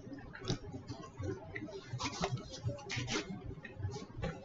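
A person chewing crunchy fried food close to the microphone: irregular crisp crackles over a steady low chewing rhythm.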